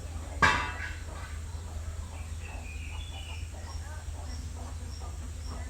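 Rural farmyard ambience in the morning, with faint bird chirps, a faint regular high ticking and a steady low hum. One sharp, loud sound about half a second in that rings briefly before fading.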